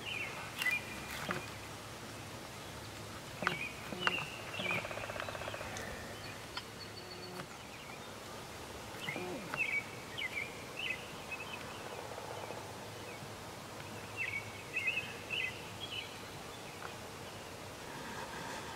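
Birds calling outdoors: short chirps in small clusters every few seconds over a steady low background hum.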